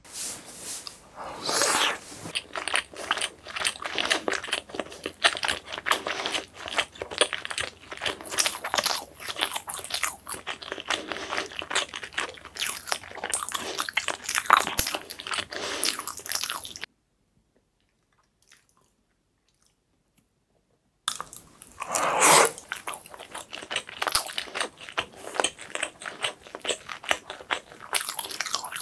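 Close-miked chewing of a soft cake made from milk and chocolate, with many small mouth clicks. The chewing breaks off for about four seconds in the middle, then starts again with one louder mouthful.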